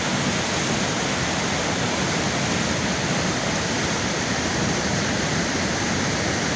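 Girvas waterfall on the Suna River in spring flow: water rushing steadily over rock.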